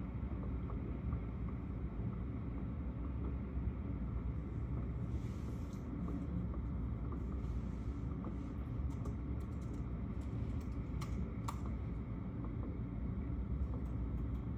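Computer keyboard typing in scattered keystroke clicks, thickest in the middle, over a steady low rumbling background noise.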